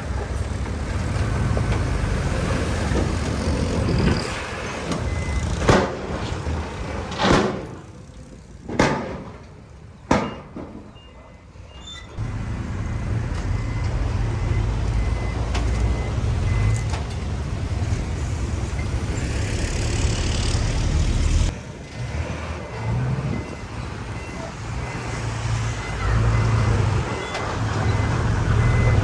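Heavy diesel earthmoving machinery running with a steady low rumble. It dies away for a few seconds early on, with several sharp knocks, then returns. Through the second half a reversing alarm beeps faintly at an even pace.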